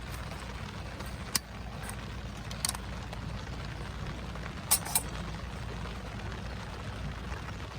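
Wood fire burning in a Solo Stove, crackling with four sharp pops (two close together about five seconds in) over a steady low rumble.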